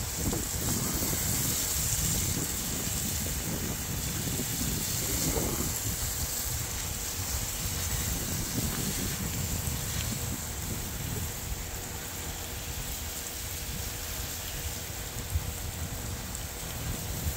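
Water being sprayed over potted succulents, a steady hiss of falling water, with wind rumbling on the microphone.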